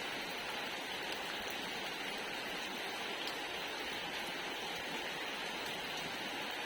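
Steady rainfall: a constant even hiss of rain with a few faint drop ticks.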